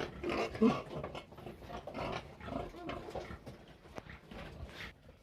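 Pigs vocalizing in a string of short, irregular calls, loudest in the first second.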